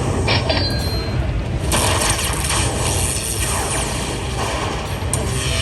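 Busy casino floor din with electronic slot machine sounds, including a few short high beeps about a third of a second in.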